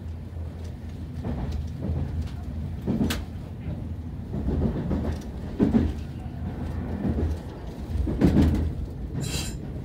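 Electric commuter train running on track as it slows toward a station, a steady low rumble with irregular heavy thumps of wheels over rail joints and points, four of them louder than the rest. A brief high-pitched sound comes near the end.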